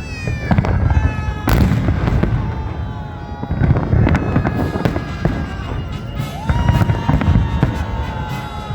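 Fireworks salute: repeated deep booms and sharp bangs over a continuous low rumble.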